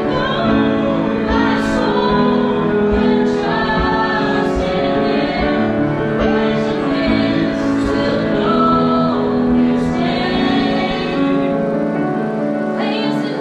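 Congregational worship singing: a choir-like group of voices, women's voices prominent, singing a gospel-style song over a band, with cymbal strokes roughly once a second.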